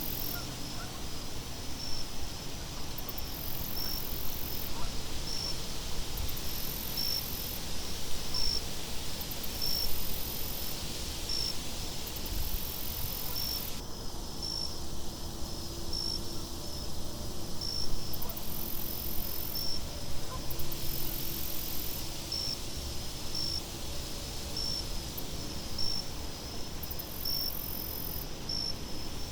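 Crickets chirping in a steady, even rhythm, about once a second, over a continuous bed of wind noise.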